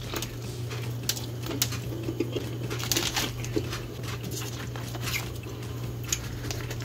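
A person chewing a bite of tuna sandwich, with many small wet mouth clicks and smacks, and the sandwich rustling on its paper wrapper as it is picked up. A steady low hum runs underneath.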